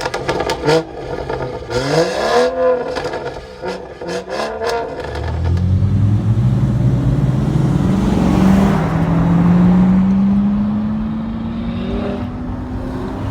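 A few clicks and knocks, then about five seconds in a car engine comes in strongly as the car pulls away, its note climbing slowly and steadily as it accelerates.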